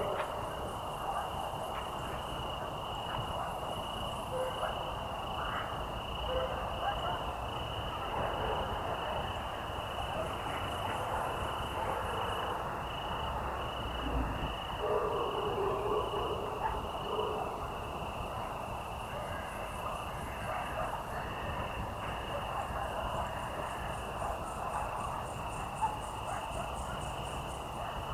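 Evening chorus of crickets: a steady high pulsing trill carries on throughout, with higher, buzzy insect trills coming and going every few seconds. Beneath them runs a lower chorus of croaking frogs.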